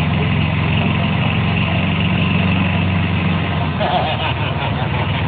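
Vehicle engine running steadily at low revs.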